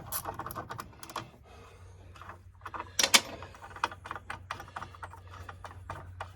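Hand tools clicking and clattering against the tractor's front-end loader control housing as it is taken apart, with a louder knock about three seconds in. A low steady hum runs underneath.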